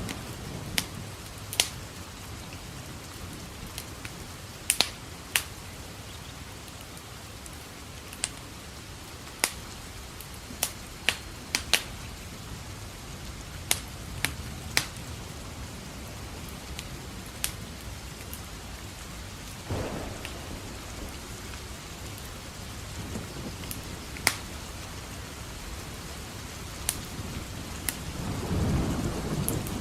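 Steady rain with low thunder rumbling, briefly about two-thirds of the way in and longer near the end. Sharp, scattered pops and crackles from a wood fire burning in a fireplace.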